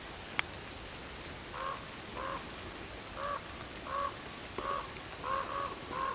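An animal calling in a run of about eight short, hoarse calls, one every half-second or so, starting about a second and a half in, over a steady hiss of rain and wind in the forest; a single sharp click comes just before the calls.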